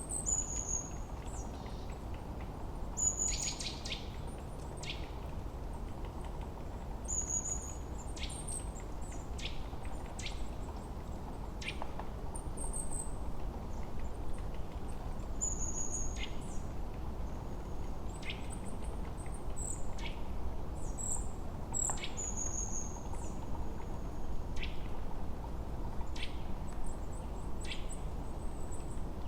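Forest birds singing: short high whistled notes and quick downward-sweeping chirps repeating every second or two, over a steady low background rush.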